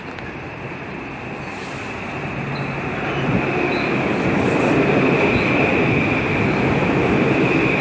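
Metro-North M8 electric multiple-unit train pulling in alongside the platform, its rumble growing louder about three seconds in as the cars pass close by. From about halfway, a steady high squeal sounds as the train slows to stop.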